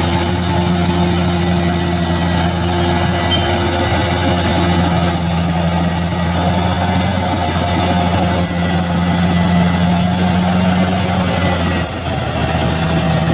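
Large crawler bulldozer's diesel engine running steadily, with its steel tracks giving a thin high squeal that comes and goes.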